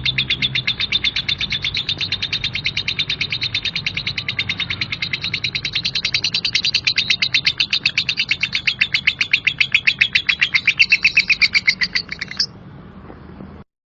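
Female lovebird's 'ngekek', a long rough chattering trill of rapid repeated notes, about ten a second, kept up without a break until it stops abruptly near the end.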